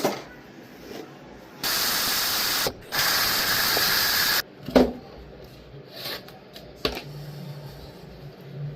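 Two long hissing sprays, the first about a second and the second about a second and a half, each starting and stopping sharply, followed by a few light knocks and clicks.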